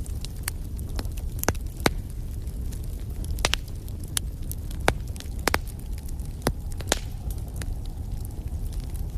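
Wood fire in a fireplace burning with a steady low rumble, crackling and popping with sharp irregular snaps, several close together about three and a half seconds in.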